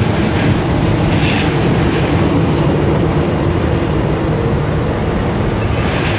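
VB2N double-deck passenger coaches rolling slowly past, with a steady rumble of wheels on rail and a low hum. Wheels clack over rail joints about a second in and again just before the end.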